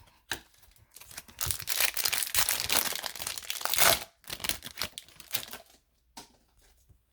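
A hockey card pack's wrapper being torn open and crinkled, with a loud rustling stretch of about three seconds and lighter rustles after it.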